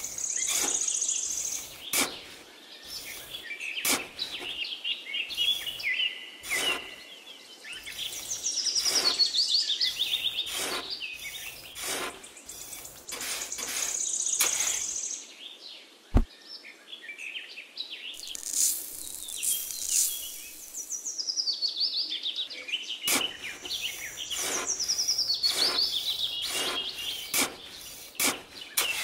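Birds chirping and singing in repeated descending trills, over the scraping and tapping of a small metal shovel working sand. There is a single sharp knock about sixteen seconds in.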